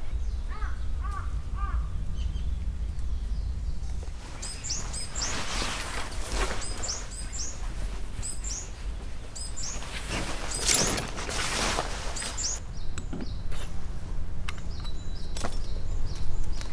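Small birds chirping in repeated short, high calls, with a few lower calls about a second in. Two rushes of noise a few seconds apart and a steady low rumble run beneath them.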